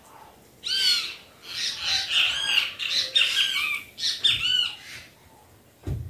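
Backyard birds calling: a busy run of loud, quick, arched chirps that starts under a second in and keeps going for about four seconds with brief gaps. A dull low bump sounds right at the end.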